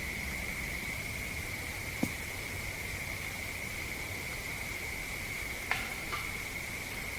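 Crickets trilling in a steady, high-pitched chorus, with one sharp snap about two seconds in and two more close together near six seconds.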